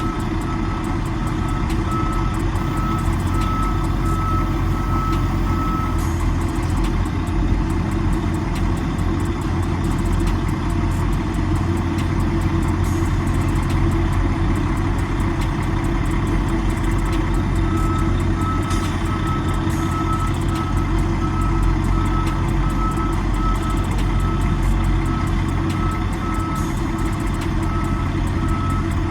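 Semi truck's diesel engine running at low speed while backing a trailer into a dock door. A back-up alarm beeps about twice a second for the first six seconds, stops, and starts again about two-thirds of the way through.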